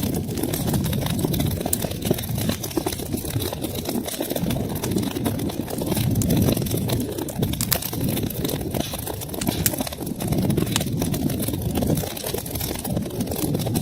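Wood fire crackling: many small sharp pops and snaps over a steady low rumble of burning.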